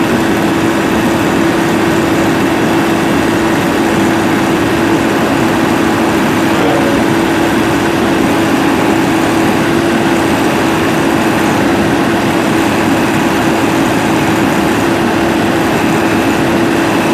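A heavy diesel engine running steadily at constant speed, with a strong steady hum.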